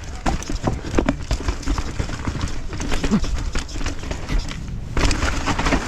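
Mountain bike riding down a rough dirt trail: a fast, irregular clatter of knocks and rattles from the bike over roots and rocks, over a low rumble of tyres and wind on the helmet-mounted camera's microphone. A louder rushing noise comes in about five seconds in.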